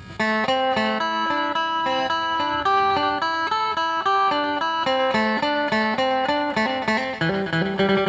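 Phin, the Isan plucked lute, playing a quick melodic line of plucked notes that starts just after the beginning, with a lower note held longer near the end.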